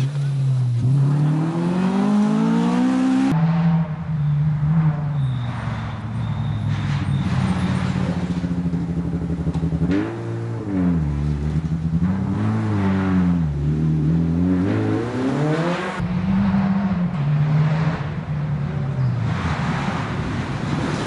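Rally car engines revving hard, one after another. The pitch climbs steadily at first, then rises and falls repeatedly as the drivers blip the throttle and lift off.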